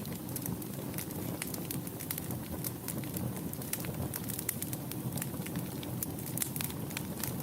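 Wood fire burning in a fireplace: a steady low rush of flames with many quick, irregular crackles and pops.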